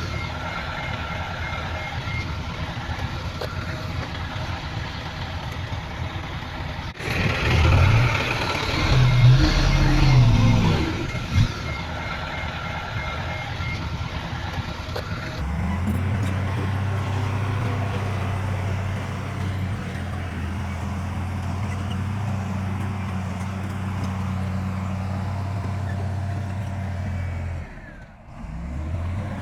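Diesel engines of heavy earthmoving machinery (bulldozer and dump trucks) running and working, revving up briefly about a third of the way in and then settling into a steady low drone. A rapid high beeping is heard in the first half.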